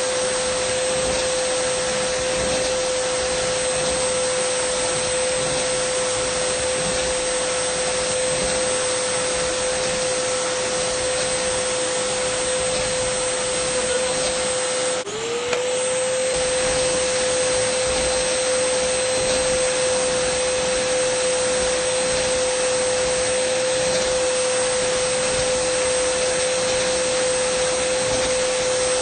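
Dyson vacuum cleaner running steadily: a rushing airflow hiss with a high motor whine held at one pitch. About halfway through, the sound dips for a moment and the whine drops, then slides back up to its steady pitch.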